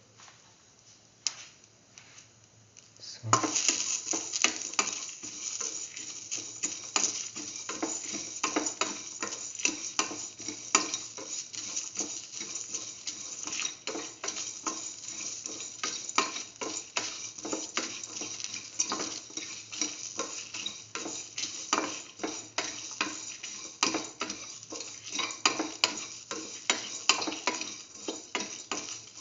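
Chopped onion, ginger and whole spice seeds frying in oil in a metal pan, sizzling steadily, with a spatula stirring them and scraping and clicking against the pan. The sizzle starts suddenly about three seconds in, after a near-quiet opening with a few clicks.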